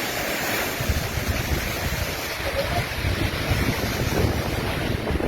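Strong storm wind and heavy surf during a hurricane, a steady rushing roar with gusts buffeting the microphone.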